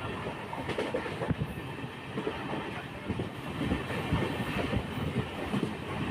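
Moving passenger train running along the track: a steady running noise with many short, uneven knocks and clacks from the wheels and carriages.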